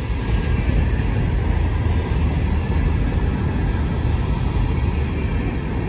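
Freight train of Herzog ballast cars rolling slowly past, a steady low rumble.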